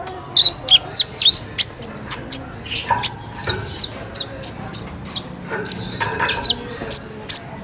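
Sunbird (kolibri ninja) singing a rapid run of sharp, high chirps and short whistled notes, several a second.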